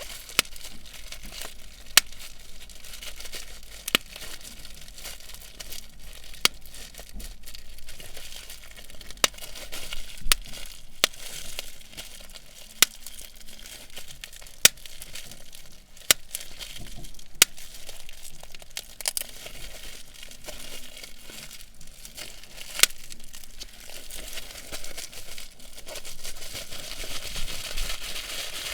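Bubble wrap being handled, crinkling steadily, with sharp single pops at irregular gaps of a second or two.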